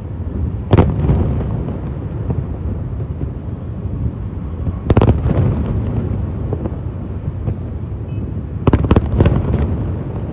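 Aerial fireworks shells bursting: sharp bangs about a second in and about five seconds in, then a quick run of three near the end. Each bang is followed by an echoing tail, over a steady low rumble of more distant bursts.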